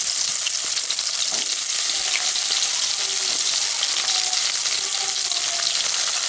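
Pieces of moringa drumstick frying in hot mustard oil in a wok: a steady hissing sizzle with many small crackles.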